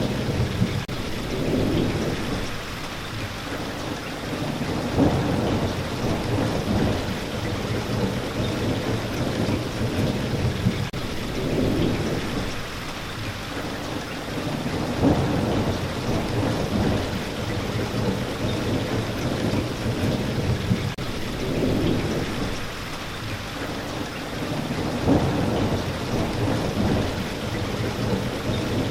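Steady rainfall with low rumbles of thunder that swell and fade every few seconds.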